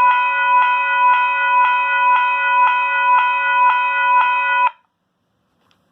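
Western Cullen Hayes electronic railroad crossing bell, with no moving parts, sounding a synthesized gong strike from its speaker about twice a second. It cuts off suddenly near the end.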